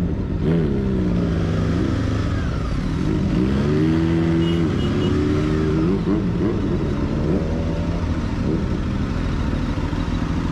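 Motorcycle engine running, its pitch rising and falling several times as it revs and changes speed over a steady low rumble. Three short high beeps sound about halfway through.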